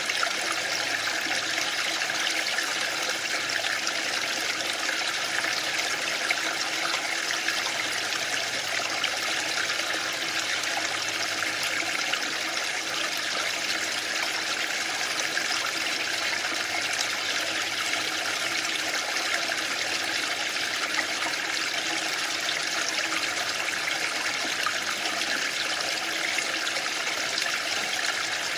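Waterfall: a steady, even rush of falling and splashing water, with no swells or breaks.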